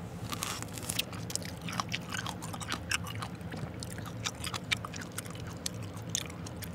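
Close-miked biting and chewing of a raw lemon wedge, with many small sharp mouth clicks throughout.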